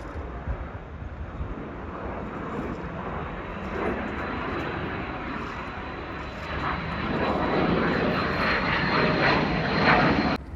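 Jet aircraft flying overhead: a wide rush of engine noise with a thin high whine, building to its loudest near the end, then cutting off suddenly.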